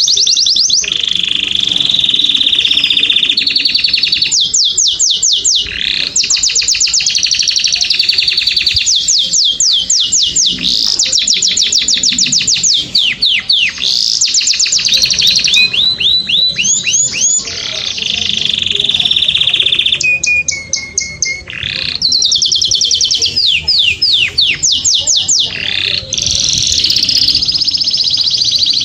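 A small caged songbird singing continuously and loudly. Its song is fast trills of rapid downward-sweeping notes, alternating with held high whistles, with a brief lower, falling phrase about two-thirds of the way through.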